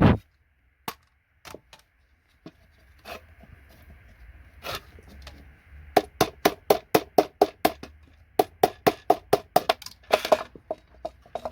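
Hammer striking a paint scraper wedged under a connector to pry it off a circuit board: a few scattered knocks, then a quick run of sharp strikes, about four a second, from about six seconds in.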